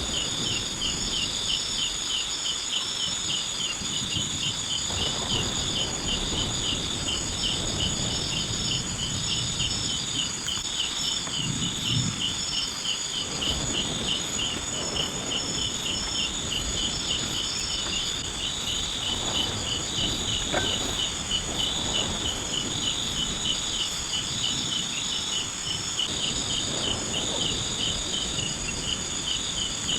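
Chorus of insects chirping: one pulses steadily about twice a second over a continuous high trill and a second, faster pulsing call, with irregular low rustling underneath.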